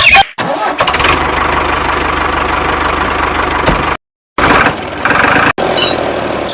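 A motor running steadily with an engine-like sound, cutting out abruptly for a moment about four seconds in and briefly again about a second later.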